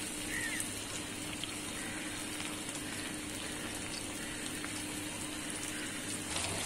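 Chopped onion and tomato frying in a pan of oil: a steady sizzle with faint crackles, a low steady hum underneath.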